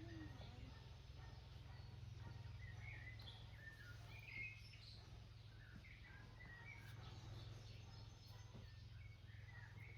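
Faint songbirds chirping, many short scattered calls, over a low steady rumble.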